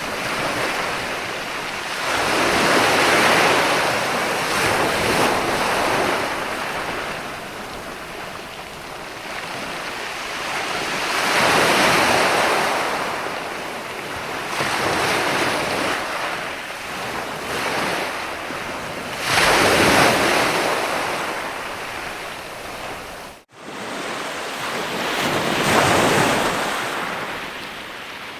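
Ocean waves breaking and washing up the shore, the surf swelling and fading every few seconds. The sound cuts out for an instant near the end.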